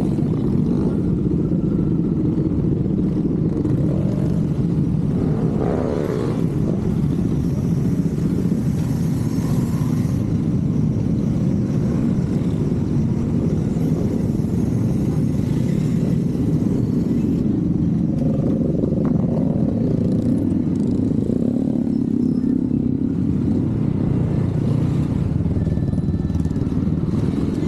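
Motorcycle engine running steadily with a continuous low rumble.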